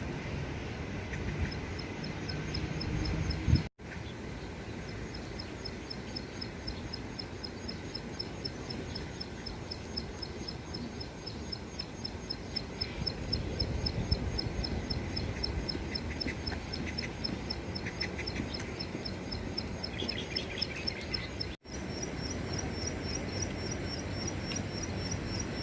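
A small wild songbird locally called the klik-klik calling: a long run of short, high, repeated notes, about four to five a second, growing clearer near the end. A steady low rumble of outdoor background noise runs underneath.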